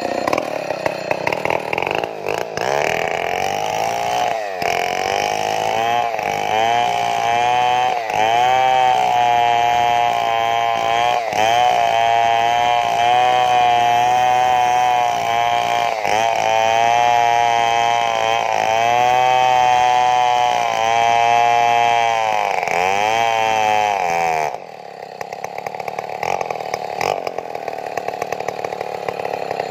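Stihl two-stroke chainsaw running at full throttle as it cuts into a large tree trunk, its pitch wavering and dipping briefly several times as it bogs under load. Near the end it drops back to a lower, quieter idle.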